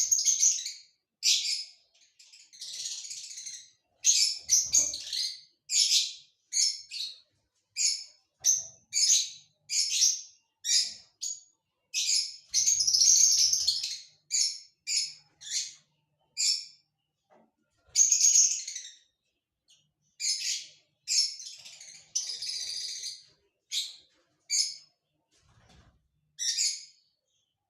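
Parrot calling: a long run of short, high chirps and squawks, about one or two a second, broken by a few longer, scratchy calls lasting a second or more.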